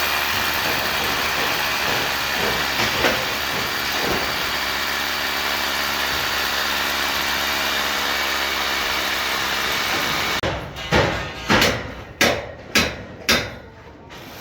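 A machine engine runs with a steady, loud rushing noise and a low hum. About ten seconds in it gives way to about six sharp knocks in quick succession, roughly two a second.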